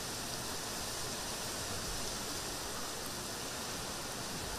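Heavy rain falling steadily: an even hiss with no separate drops or gusts standing out.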